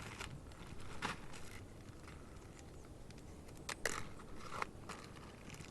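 Handling noises at a small campfire: a few sharp snaps and scrapes, the loudest about four seconds in, over a low steady rumble.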